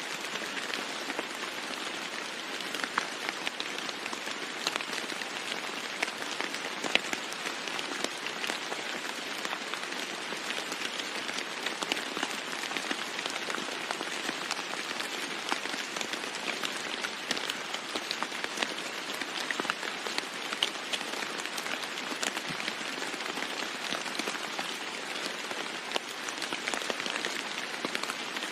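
Steady rain falling on a roof: an even hiss with many individual drops ticking through it.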